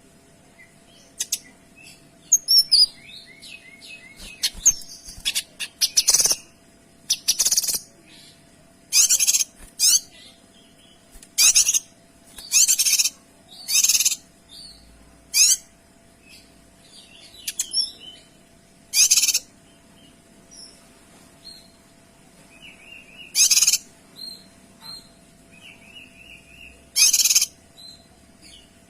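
Kinoy songbird singing clear, rapid-fire bursts of song. The loud, very high-pitched phrases come about every one to two seconds, with softer chirps between them.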